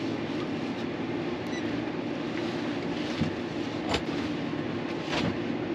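Steady mechanical drone, with a few faint clicks about four and five seconds in.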